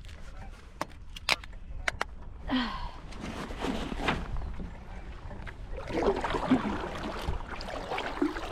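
Canoe paddling: sharp knocks of the paddle against the canoe's hull early on, then the swish and splash of paddle strokes through the water.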